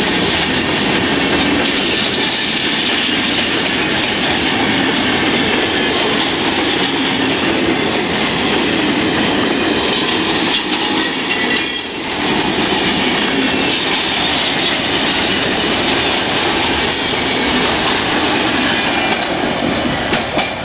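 Freight train wagons rolling past close by: a steady rumble and clatter of steel wheels on the rails. The sound drops as the last car goes by near the end.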